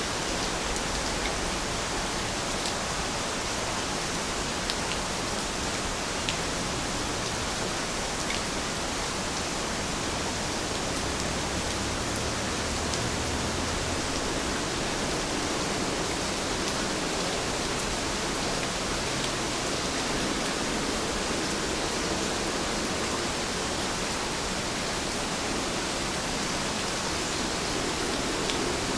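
Heavy rain falling steadily, an even hiss with a few faint separate drop ticks.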